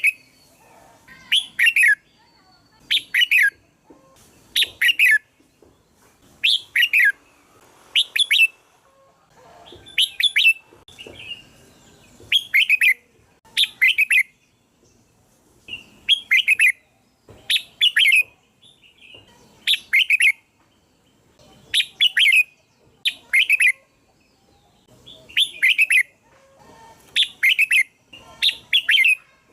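Red-whiskered bulbul singing: short, quick warbling phrases repeated over and over, one about every one and a half to two seconds.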